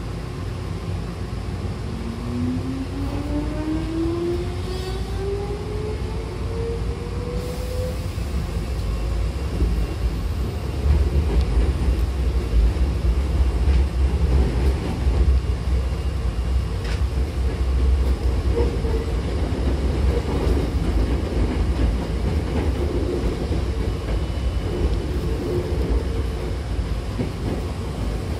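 Hankyu electric commuter train, set 5128, pulling away from a station, heard from inside the car: the traction motor whine rises steadily in pitch for the first several seconds as the train accelerates. From about eleven seconds in, the louder running rumble and rattle of the wheels on the rails takes over.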